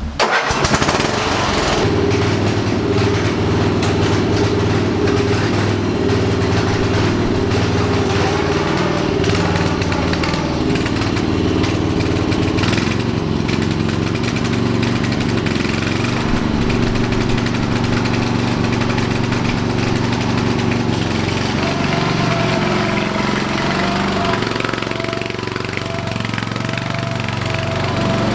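Ride-on lawn mower's 12-horsepower engine running steadily under load while mowing. The engine note shifts slightly about two-thirds of the way through.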